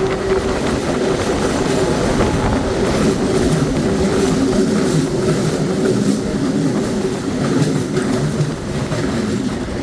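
Belo Horizonte Metro Série 900 electric train running along the track: a steady rumble of wheels on rails with a motor hum and occasional faint clicks.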